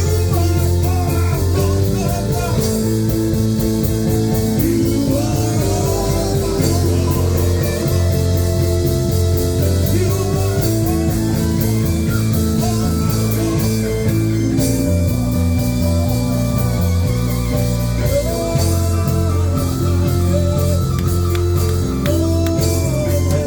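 Live worship band music: electric guitar, bass and drums playing a steady groove, with some singing.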